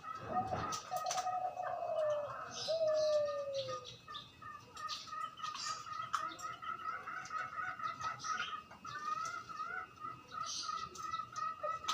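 A young spotted dove cooing: a low pulsed coo about a second in, ending in a long falling note, over steady high twittering from other birds. A brief knock sounds at the very start.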